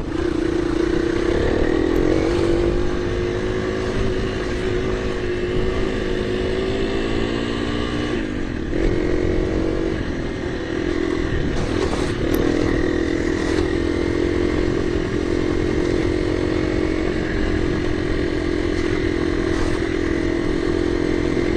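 KTM 350 EXC-F dirt bike's single-cylinder four-stroke engine running at steady part throttle; the engine note eases off about eight seconds in and picks up again a couple of seconds later.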